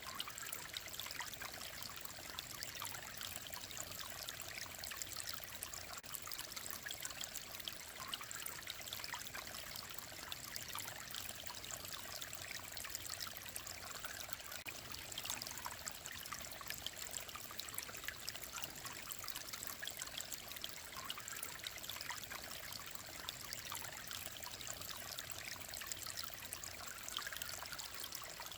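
Mountain stream of clear water flowing and trickling over rocks: a steady, even rush of water with fine splashing.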